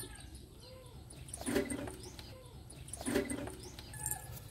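Birds calling in the background: two matching short calls about a second and a half apart, with faint high chirps between them.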